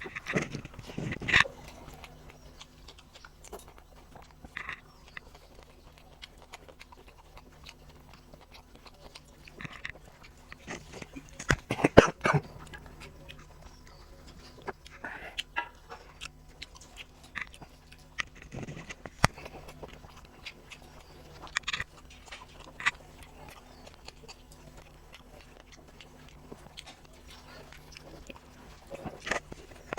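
Close-up eating sounds: a person chewing and smacking their lips through mouthfuls of rice and dal, with scattered short clicks and bursts. The loudest burst comes about twelve seconds in, over a faint steady hum.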